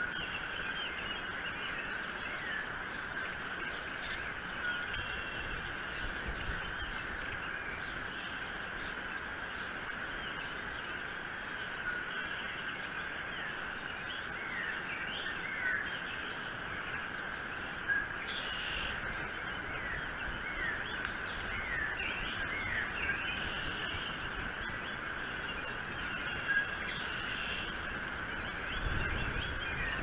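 Small birds calling in the woods around the nest: scattered short chirps that glide up or down in pitch, over a steady outdoor hiss. Low gusts of wind rumble on the microphone now and then, most plainly near the end.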